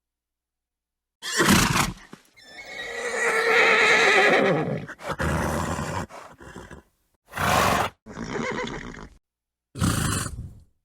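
Horse vocalising: a short snort, then a long whinny whose pitch wavers and falls, followed by several short breathy snorts, each separated by dead silence.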